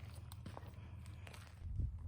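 Faint footsteps on dry desert ground, a few light scattered steps with a duller thump near the end.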